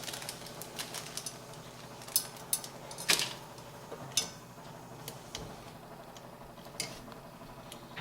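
Scattered small clicks and taps of screws and a hard drive being handled and fitted into a computer case's drive tray, the sharpest few between about two and four seconds in.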